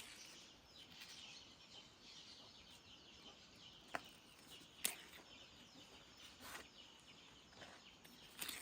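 Quiet outdoor ambience with faint birds chirping, broken by a few sharp knocks, two of them about a second apart near the middle.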